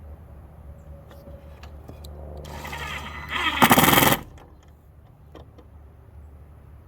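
Power driver whirring up briefly, then a burst of loud, rapid hammering lasting about half a second that stops abruptly, typical of an impact driver working a screw in gate wood.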